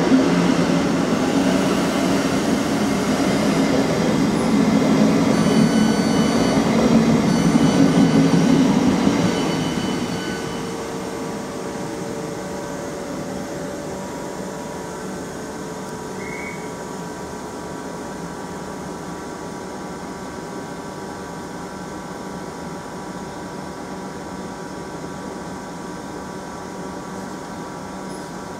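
South Western Railway electric multiple unit at the platform. A loud rumble for about the first ten seconds, with short high beeps about six to eight seconds in, fades to a steady hum from the standing train.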